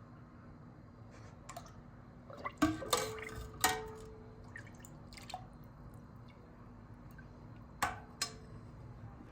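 A few light knocks and clinks over a low steady background: a cluster about three seconds in, one of them leaving a short ringing tone, and two more near the end.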